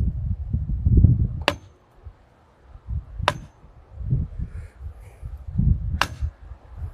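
Three hammer blows on a steel well pipe being driven into the ground, sharp metallic hits spaced a couple of seconds apart, the first two leaving a brief high ring. Gusts of wind rumble on the microphone between them.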